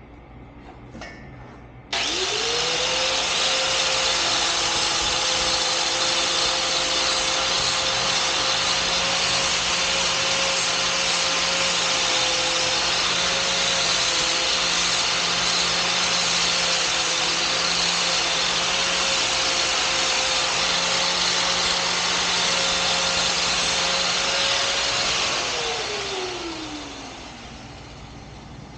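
Electric angle grinder switched on, its motor whine rising to full speed, then grinding a steel guard piece steadily for over twenty seconds before it is switched off and the whine falls away as the disc spins down.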